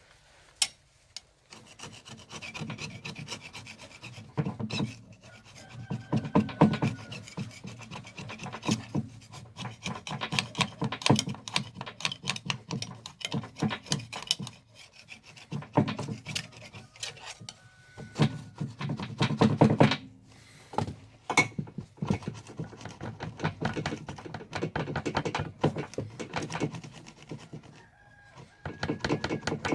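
Hand-tool rasping on engine parts: rapid back-and-forth scraping strokes in bouts, with short pauses between them.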